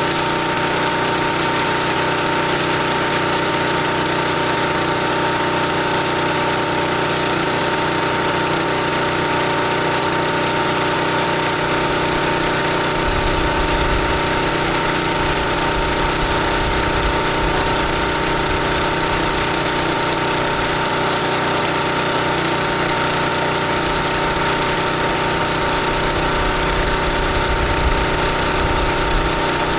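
Pressure washer's gas engine running steadily under load while spraying, with the steady hiss of the water jet; a low rumble comes in about halfway through.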